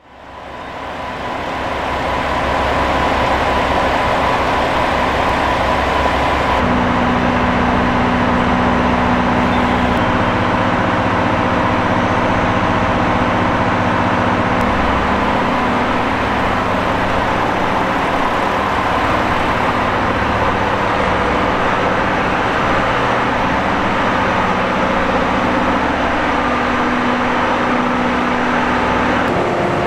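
Diesel-hauled 12-series passenger train running: a steady rumble with a diesel engine's hum that shifts pitch a few times. It fades in over the first two seconds.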